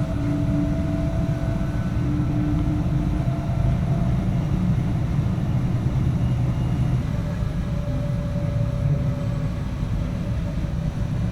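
Train running along the line: a steady low rumble, with faint steady whining tones that fade in and out over it.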